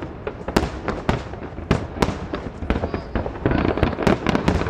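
Aerial firework shells bursting in a finale barrage: sharp bangs several times a second, thickening into a denser, louder continuous crackle of bursts about three and a half seconds in.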